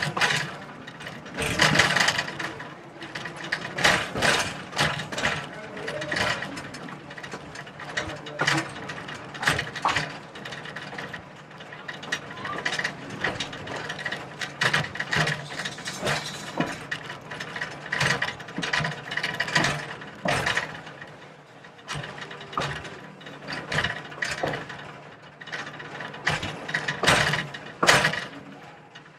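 A heritage railway train rolling along the track, its car rattling and clanking with a constant stream of irregular clicks and knocks over a low hum.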